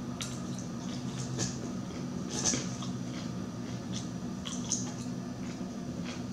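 Close-up chewing of a mouthful of crunchy chopped salad: scattered crisp crunches and wet mouth clicks, over a steady low hum.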